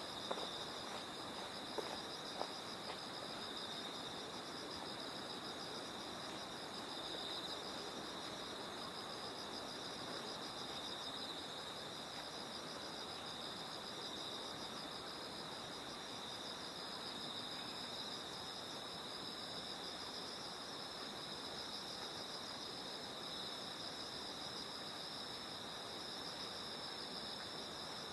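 Night chorus of autumn insects chirping steadily in two high-pitched bands, with a few sharp footstep clicks in the first three seconds.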